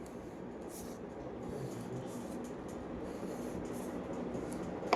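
A line being drawn on paper: a series of short, faint scratching strokes of the drawing tool across the sheet.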